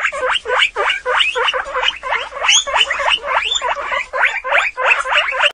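Guinea pig squeaking in a fast, continuous run of short, rising squeaks, several a second.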